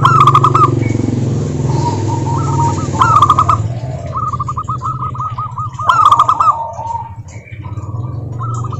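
Zebra doves (perkutut) singing: quick runs of short, clipped cooing notes in phrases of about a second, repeated every few seconds and overlapping, over a steady low hum.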